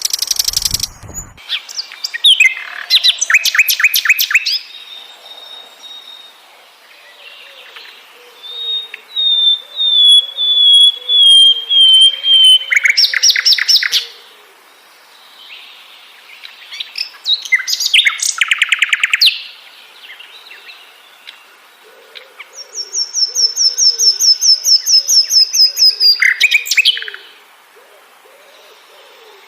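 Sikatan londo flycatcher singing a varied song in separate phrases: quick bursts of rapidly repeated notes, a long whistle that slowly falls in pitch about a third of the way in, and a fast run of high, evenly repeated notes near the end.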